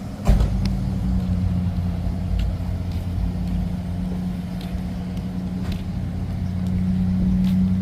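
A car engine idling with a steady low hum. A single thump about a quarter second in.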